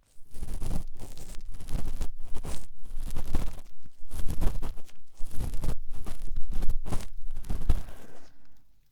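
Cotton swab rubbing and scraping inside the ear of a binaural microphone, a close, dense scratchy rustle in strokes of about a second with brief pauses between them.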